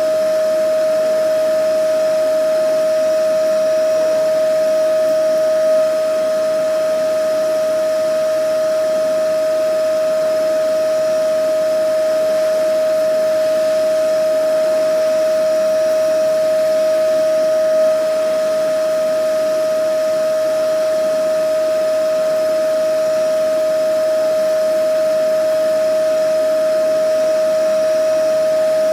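Vacuum cleaner motor running steadily: a constant whine over even rushing noise, with a slight bump in level twice.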